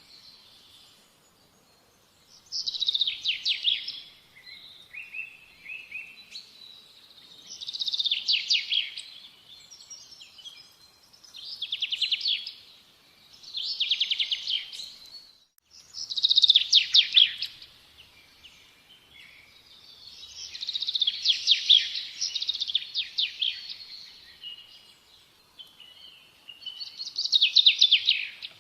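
A songbird singing loud, rapid trilled phrases, about seven of them, one every few seconds, with softer chirps in between.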